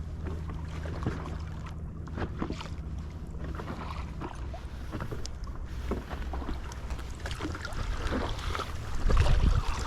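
Water lapping and splashing against a stand-up paddleboard, with scattered small knocks and a low steady hum that stops about four seconds in. Wind buffets the microphone near the end.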